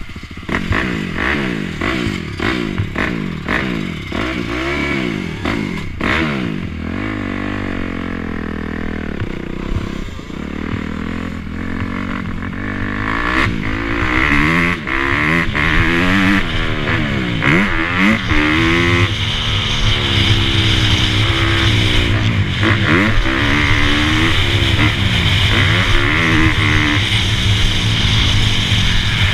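Dirt bike engines revving, the engine note rising and falling again and again, growing louder from about halfway through.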